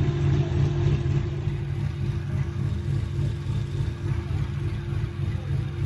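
Car engine idling, a steady low note that holds without revving.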